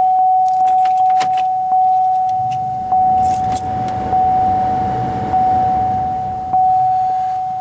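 A car's dashboard warning chime, a steady single-pitch tone struck again about every 1.2 seconds and fading between strikes, as the key sits in the ignition of a 2008 Pontiac Grand Prix before a cold start. Keys jingle in short bursts over it.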